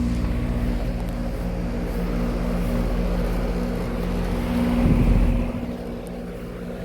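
Outdoor condenser of a 2014 Daikin DX16SA 4-ton central air conditioner running: the Copeland scroll compressor under its sound blanket hums steadily with the condenser fan. About five seconds in the hum swells briefly, then its deepest part drops away.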